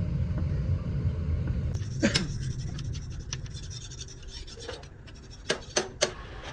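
A low rumble, then a sharp knock about two seconds in and three quick knocks near the end.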